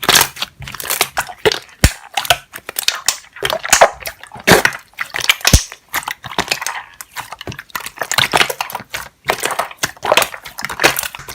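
Air bubbles popping in quick, irregular crackles and snaps, with a few sharper single pops.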